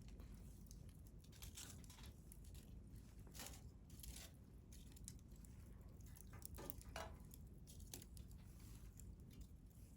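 Wood fire crackling faintly, with scattered pops and snaps at irregular intervals; the sharpest snap comes about seven seconds in.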